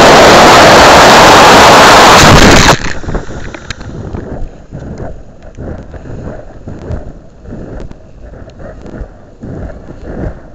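Very loud rushing wind noise, overloading a keychain camera's microphone riding on a model rocket in flight. It cuts off abruptly about three seconds in, giving way to much quieter, gusty wind buffeting on the microphone.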